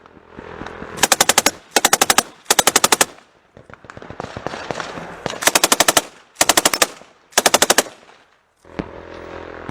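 Close automatic gunfire: six short bursts of rapid shots, three in quick succession, then after a pause of about two seconds three more.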